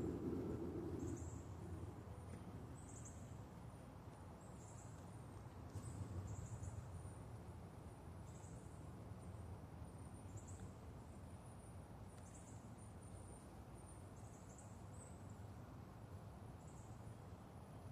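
Faint outdoor ambience with a short, high insect-like chirp repeating about once a second over a low steady hum. A louder low sound at the start fades out within the first second.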